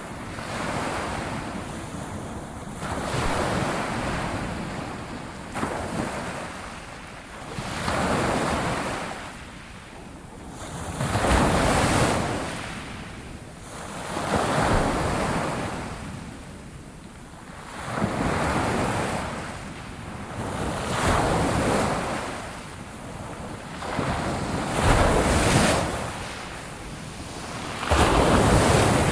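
Ocean waves washing onto a shore, the surf swelling and falling back every few seconds in a steady rushing rhythm.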